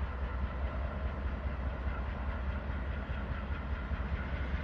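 Norfolk Southern diesel freight locomotive approaching slowly: a steady low engine rumble mixed with rolling wheel noise.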